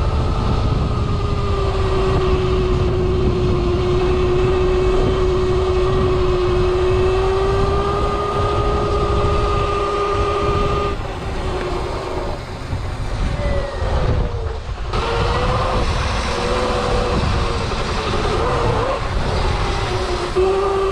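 Electric dirt bike motor whining while riding a trail, with heavy wind rumble on the microphone. The whine holds a steady pitch for about ten seconds, drops away around the middle, then returns rising and falling with the throttle.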